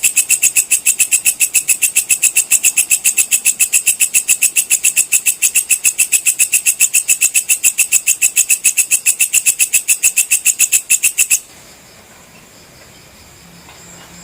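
Walang kecek (belalang kecek) insect singing a loud, fast, even train of sharp high chirps, about seven a second, that stops abruptly about eleven seconds in, leaving only a faint high hum.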